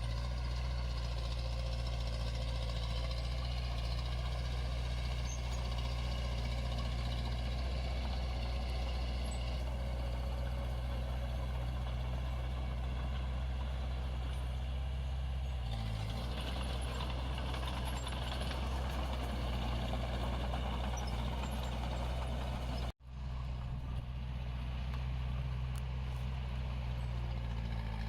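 Heavy diesel earthmoving machinery running steadily, a low engine hum with a harsh mechanical overlay. The sound cuts out for an instant about three-quarters of the way through, then carries on.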